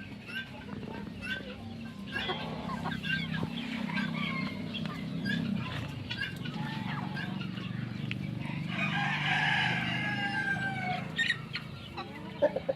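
Chickens clucking throughout, with a rooster crowing once about nine seconds in, a long call that falls slightly at its end. A steady low hum runs underneath.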